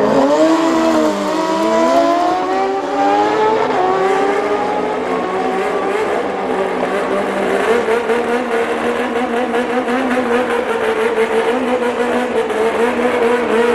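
Turbocharged Suzuki Hayabusa and nitro Suzuki GSX-R1000 drag bikes launching and running down the strip: the engine note dips about a second in, climbs in steps through the gears over the next few seconds, then holds a steady high pitch.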